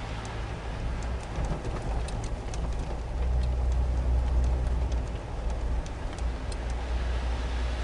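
Car engine and road rumble heard from inside the cabin while driving, swelling louder for a couple of seconds midway, with scattered faint clicks.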